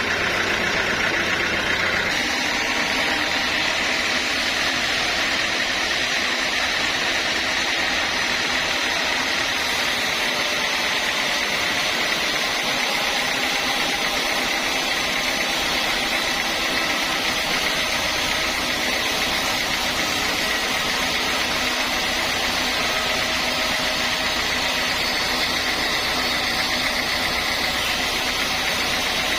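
Sawmill saw machinery running steadily, a dense unbroken mechanical noise with a steady high band; its low hum changes about two seconds in.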